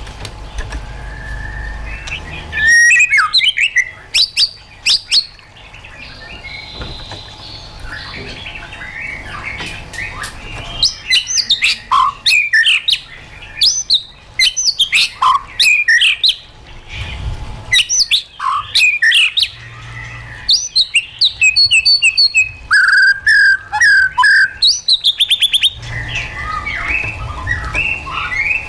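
White-rumped shama singing: loud bouts of varied, sliding whistled phrases and fast rattling trills, broken by quieter stretches of softer twittering.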